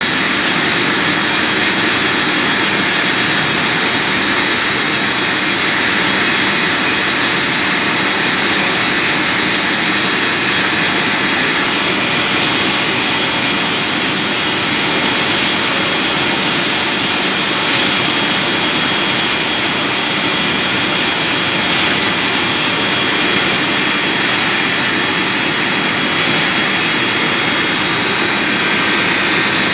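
Metal-turning lathe running steadily while machining a job: a continuous mechanical noise with a steady high whine that holds the same level throughout.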